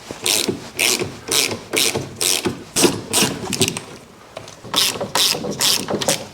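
Hand ratchet wrench worked back and forth to undo a bolt, clicking in quick strokes about two a second, with a short pause about four seconds in.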